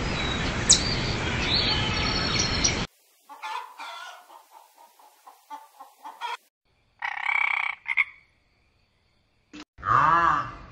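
A run of different animal calls one after another. A dense noisy chorus of calls comes first, then scattered short croak-like calls, then one drawn-out call, and near the end repeated arching calls.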